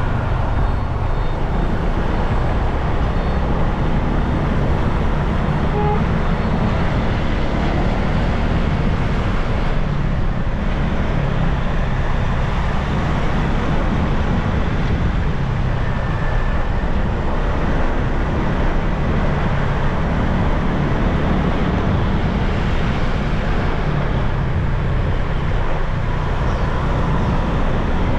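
Steady road and traffic noise heard from a moving motorbike in city traffic, dominated by a constant low rumble.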